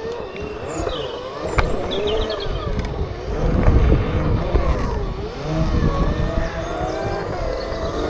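Segway electric drive motors whining, the pitch wandering up and down as the speed changes, over a low rumble that swells briefly about halfway through.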